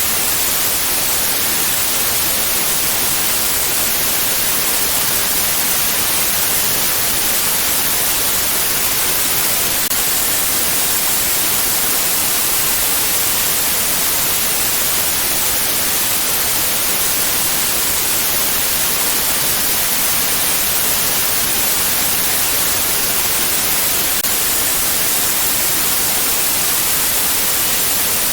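Steady white noise: an even, unbroken hiss, brightest in the high end.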